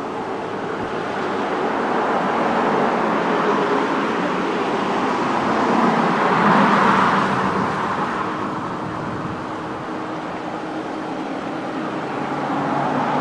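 Road traffic: a vehicle passes, its tyre and engine noise swelling to a peak about halfway through and then fading away.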